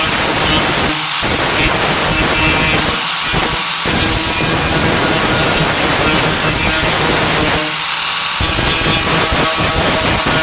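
4.5-inch angle grinder running against the truck's sheet-steel wheel arch, grinding or cutting out rusted metal, with the low end of the sound easing briefly a few times.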